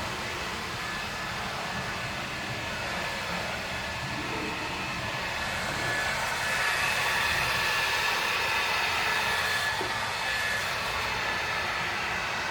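Ryobi 2000 psi pressure washer running and spraying water: a steady hiss with a thin, high, steady whine, louder for a few seconds midway.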